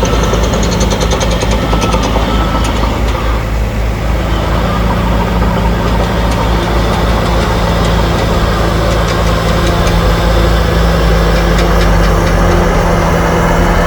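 Bulldozer's heavy diesel engine running steadily, with a metallic rattle at times near the start and again in the second half.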